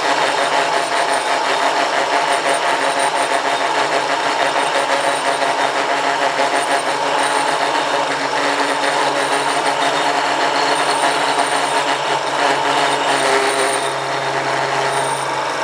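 Homemade mini lathe with a 750 W single-phase motor running, with a steady mechanical rattle and vibration. The builder puts the noise down to the lathe not being bolted down but resting on two pieces of wood.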